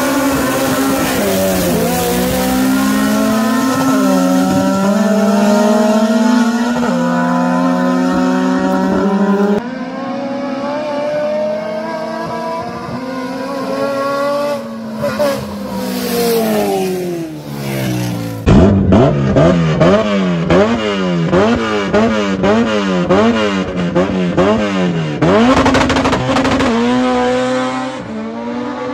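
Drag-racing cars' engines revving hard, held at high revs with steps in pitch, then falling away. Later comes rapid up-and-down revving.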